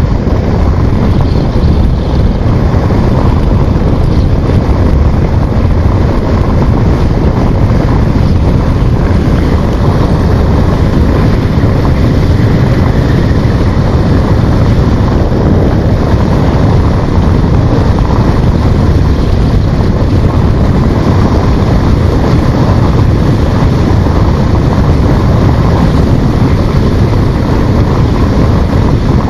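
Loud, steady wind rush buffeting the microphone on a moving motorcycle, with the motorcycle's running and road noise blended in underneath.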